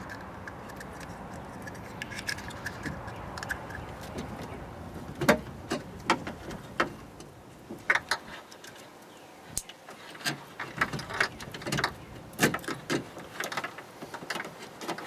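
Scattered clicks and light knocks from hands working wiring harness connectors and plastic parts inside an open car door, irregularly spaced. A faint steady hum underlies the first half and fades about halfway.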